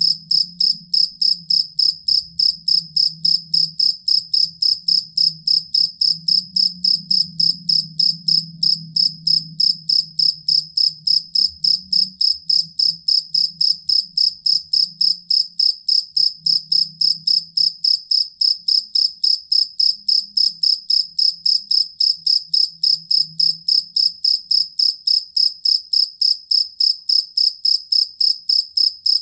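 Field cricket (jangkrik kalung) chirping steadily: loud, high-pitched chirps repeated evenly, about two or three a second. A faint low hum lies beneath.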